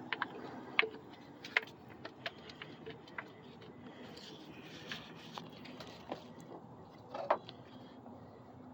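Faint scattered clicks and light taps of hands handling parts and tools under the hood, over a low steady background.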